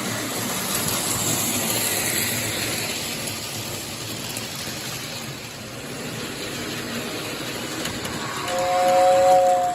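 Lionel 2065 toy steam locomotive running on its track with a steady rushing rattle of wheels and motor. About a second and a half before the end, the 2046W tender's whistle blows a steady two-note chord, louder than the running train.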